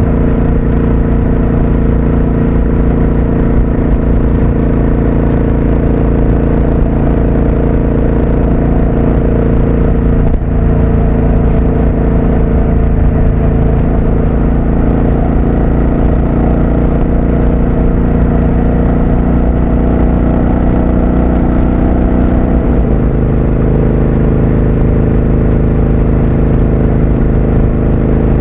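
Triumph Speed Twin 1200's parallel-twin engine running steadily under way. There is a brief dip about ten seconds in, and the engine note changes abruptly about three quarters of the way through.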